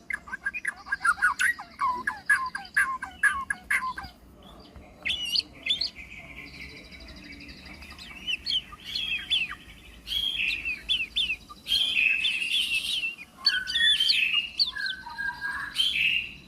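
White-rumped shama (murai batu) singing a varied song of mimicked phrases: a quick run of whistled notes, a quieter buzzy trill about halfway, then loud, dense phrases in the last part.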